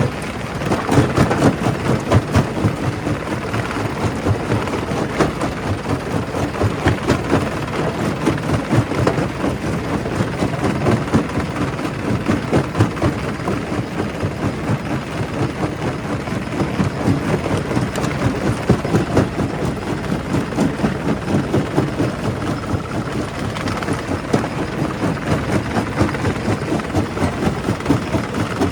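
Primary rock crusher breaking stone: a steady heavy machine noise with dense, irregular cracks and knocks of rock being crushed.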